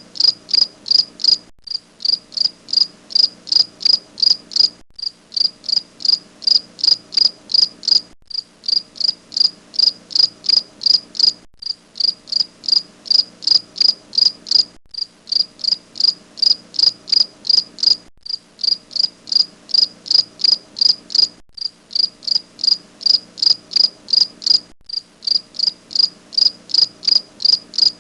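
Cricket chirping in a steady, even rhythm of about three high chirps a second, with a brief break roughly every three seconds.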